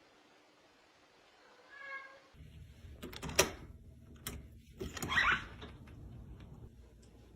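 A cat meowing, with a short call about two seconds in and a louder one about five seconds in, between a few sharp clicks.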